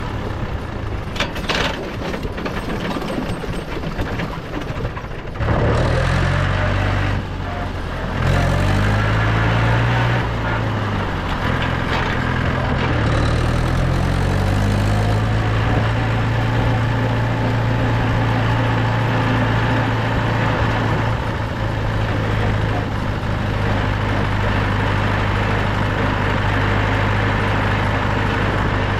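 Mahindra 475 DI tractor's four-cylinder diesel engine running on the move. About five seconds in it gets louder, and its pitch rises and falls several times over the next ten seconds as the engine speed changes, then holds steady.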